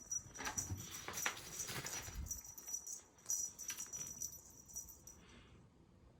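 A cat toy being shaken during play, rattling and jingling in quick clusters of light clicks with soft patter, in two spells, and dying away after about five seconds.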